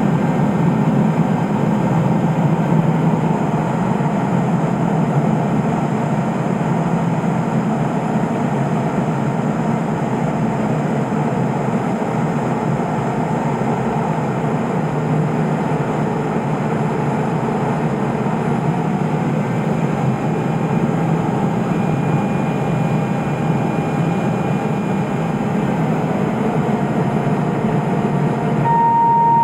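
Steady cockpit noise of a Cessna P210 Silver Eagle in flight: its turboprop engine and propeller running, heard through the headset intercom. About a second before the end, a steady single tone starts.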